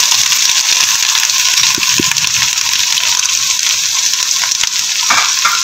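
Bitter gourd (karela) peels frying in hot oil in a pot, a steady sizzle.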